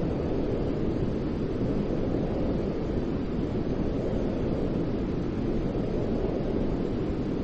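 Steady white noise for baby sleep: an even, deep rushing hiss with no changes in level or pitch.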